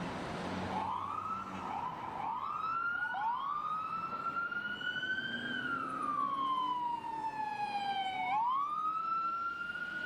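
Emergency vehicle siren in American wail style: several short rising whoops, then a long wail that climbs, falls slowly, and sweeps sharply back up near the end.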